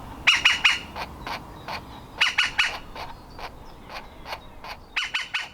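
Woodpecker nestling calling: short, sharp call notes repeated over and over, with runs of three louder calls about every two seconds and fainter single calls between.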